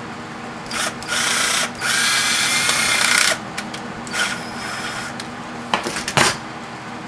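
Power drill running in short spurts with a steady whine: two brief runs about a second in, a longer run of over a second, and one more short run near the four-second mark, then a few sharp clicks near the end.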